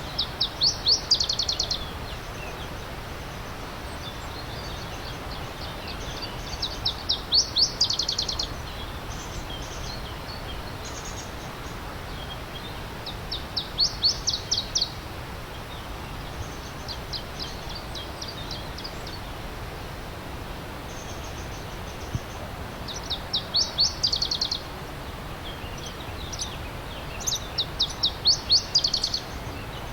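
A songbird repeating a quick run of high, downward-sweeping notes, five loud phrases a few seconds apart with fainter ones between. Underneath is the steady rush of a stream.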